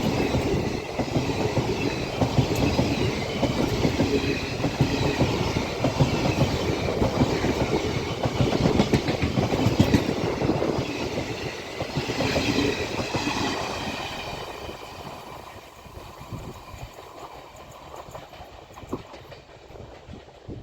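Passenger express train's coaches rolling past at speed, wheels clattering steadily on the rails. About two-thirds of the way through the sound starts to die away as the train moves off.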